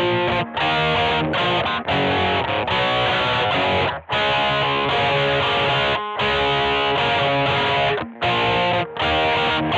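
Squier Vintage Modified Jaguar electric guitar played through an amp with some distortion: chord and note phrases with several short, sharp stops between them.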